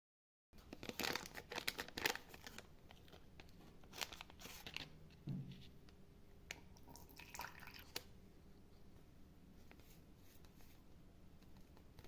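Faint handling sounds: clicks, taps and light rustling of small objects, densest in the first couple of seconds, with a short low knock about five seconds in.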